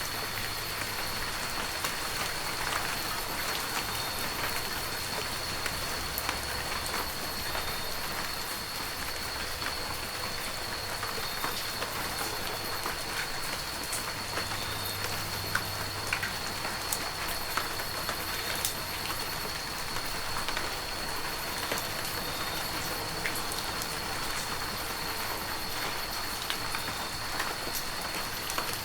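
Heavy rain falling steadily, with many sharp individual drop hits, and a thin steady high tone over it.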